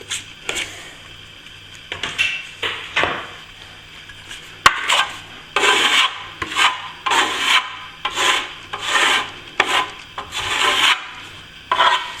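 Hand tool scraping and rubbing against plaster in repeated strokes: a few separate strokes, then a quicker steady run of back-and-forth strokes from about five seconds in.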